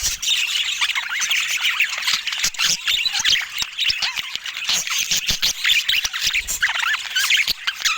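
Budgerigars chattering and warbling: a continuous stream of quick, overlapping chirps and squawks with scattered sharp clicks.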